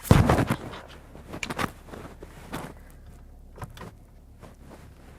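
Car seat belt being pulled across and buckled: a loud rustle of webbing and clothing at the start, then a few scattered clicks and rustles over a faint, steady low hum in the cabin.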